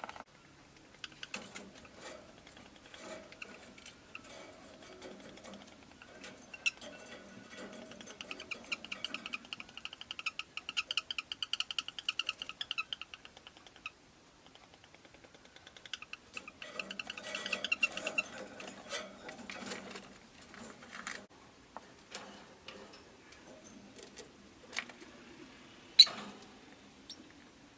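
A rosy-faced lovebird making soft clicking and chattering sounds, with two longer runs of fast ticking and a sharp click near the end.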